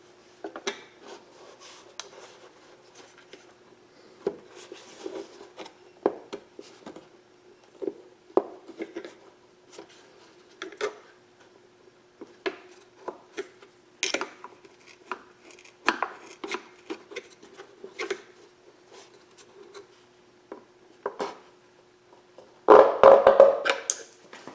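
Scattered clicks, taps and scrapes of a kayak pedal drive's plastic gear housing and its parts being handled and worked apart, over a faint steady hum. A louder burst of clattering and rustling comes near the end.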